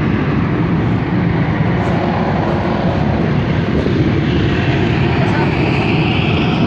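Steady, unbroken roar from inside Mount Bromo's volcanic crater, deepest in the low range, with a faint higher hiss joining about two-thirds of the way through.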